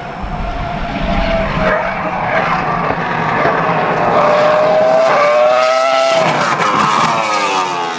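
Cosworth CR-6 3.0-litre V10 of a 2004 Jaguar R5 Formula 1 car running hard at high revs and getting louder. Its pitch climbs about halfway through, then drops steadily over the last two seconds.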